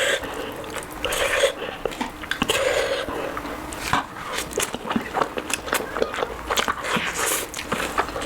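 Close-miked eating: a person chewing and biting food, with many quick wet mouth clicks and smacks.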